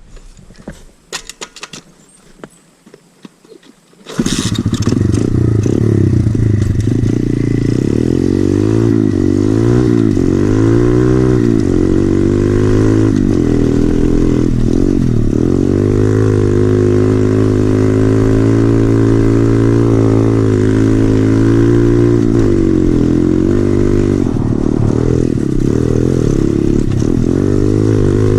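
A few light clicks and clatter, then about four seconds in a 2013 SSR 110cc pit bike's single-cylinder four-stroke engine with an FMF exhaust comes in loud, its revs climbing and dropping again and again as it is ridden.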